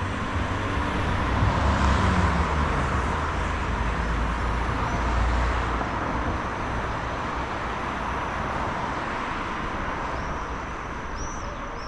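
A motor vehicle passing by, its low rumble swelling to a peak about two seconds in and its pitch dropping, then slowly fading. A few short bird chirps come near the end.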